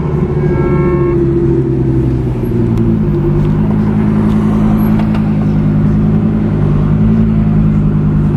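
Car engines running close by, a steady low drone that steps to a new pitch about three seconds in and again near the end. A brief higher tone sounds about half a second in.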